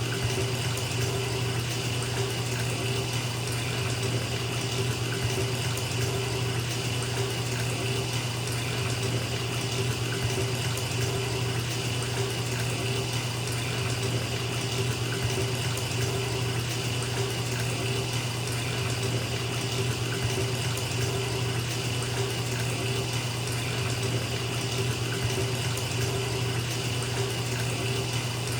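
Bathtub tap running steadily, water pouring into a filling tub in an even, unbroken rush.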